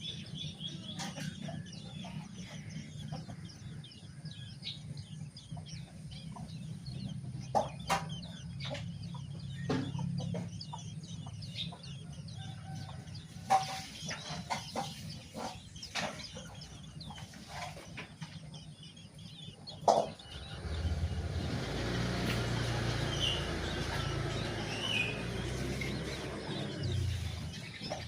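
Young long-tailed shrikes (pentet) calling with many short, high chirps over a low hum, with a sharp knock now and then. From about twenty seconds in, a louder, steady noise joins.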